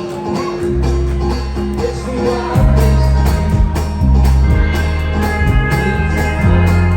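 Live country-punk band playing: strummed guitars and tambourine over a steady beat, with a heavy bass line coming in under a second in.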